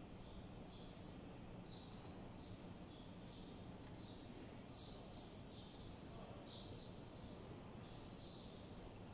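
Small birds chirping, short high chirps repeating about once or twice a second, over a faint, steady low background hum.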